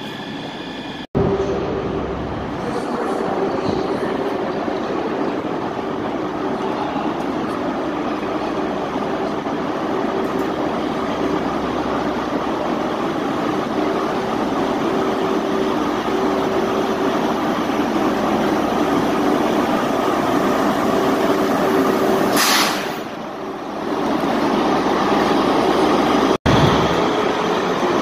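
Train running at a station platform: a steady rumble with a faint, broken hum and a short, sharp hiss about three-quarters of the way through.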